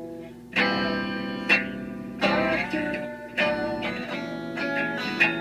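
Guitar playing an instrumental passage: four chords struck about a second apart and left ringing, with single plucked notes between them.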